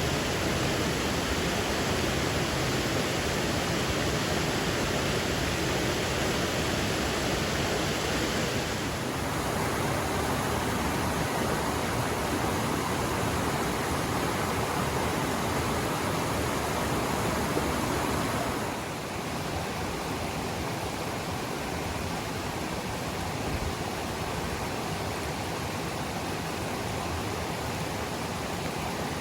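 Water of a creek waterfall rushing in a steady, even wash of noise, a little quieter from about two-thirds of the way through.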